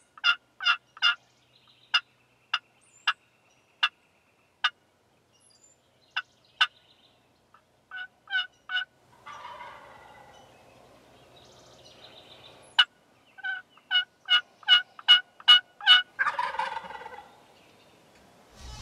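Turkey calling: runs of short, sharp wild turkey yelps, quick at first, spacing out, then a fast run again, with a rattling gobble about halfway through and another near the end.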